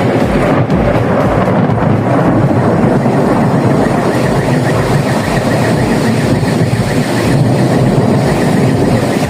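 A long, loud roll of thunder from a nearby lightning strike, rumbling on for about nine seconds and easing slightly near the end.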